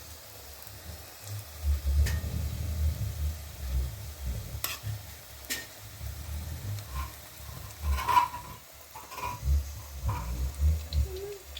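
Food being stirred and frying in a pan, with a few sharp clicks and clinks of a utensil, over a low uneven rumble.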